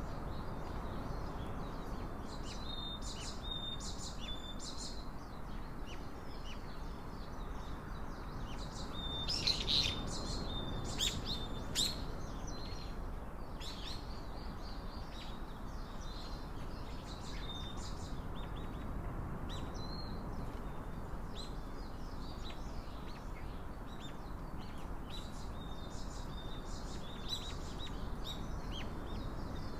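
Small birds chirping and calling, many short high notes scattered throughout, busiest about a third of the way in, over a steady background hiss.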